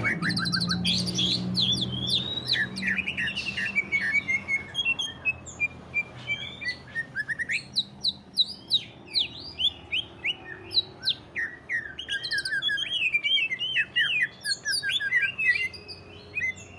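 Green leafbird (cucak ijo) singing continuously in its full, rapid song: a fast stream of sharp, high, downward-sweeping notes and chattering trills.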